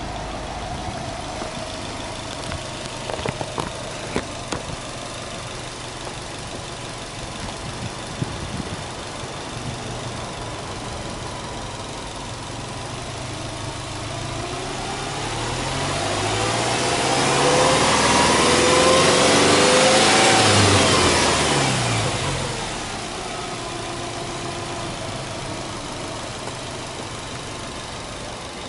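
Subaru Legacy Touring Wagon 2.0GT's turbocharged 2.0-litre flat-four idling steadily, then revved once with no load: the revs climb slowly, hold for a few seconds and drop back to idle.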